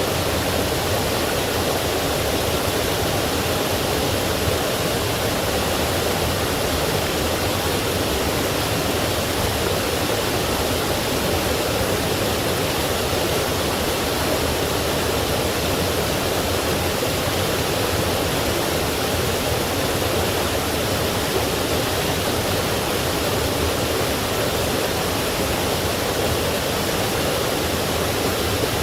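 Forest stream rushing over small waterfalls and rocks, a steady, unbroken rush of water.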